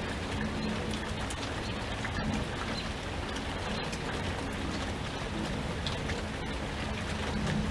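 Steady rain falling, with many separate drops clicking on a surface over an even hiss and a low rumble.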